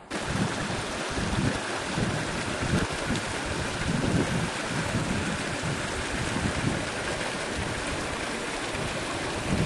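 Steady rushing water with wind buffeting the microphone in irregular low gusts; it starts abruptly with a cut.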